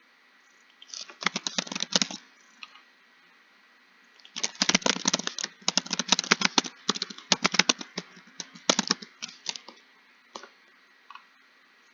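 Typing on a keyboard: rapid runs of key clicks in two main bursts, the second lasting about five seconds, broken by short pauses, with a few single key presses near the end.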